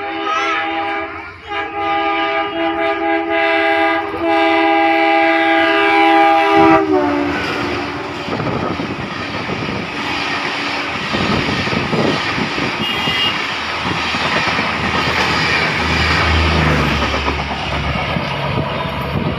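Indian Railways express train locomotive's horn sounding one long multi-tone blast that drops in pitch as the locomotive passes, about seven seconds in. The horn then stops, and the coaches rush and rattle by over the rails.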